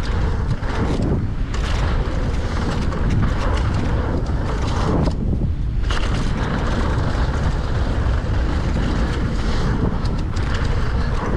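Strong wind buffeting the microphone: a steady, loud, deep rush, with scattered short knocks and clatters through it.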